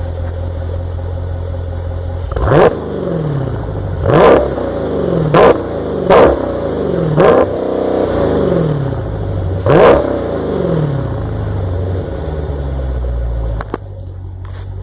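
An engine idling and then revved hard six times in quick blips, each rev climbing fast and falling straight back to idle. It then settles back to a steady, lower idle near the end.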